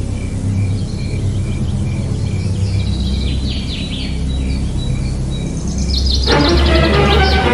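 A small motor running steadily, with birds chirping over it; about six seconds in a louder, busier burst of chirping and other sound comes in.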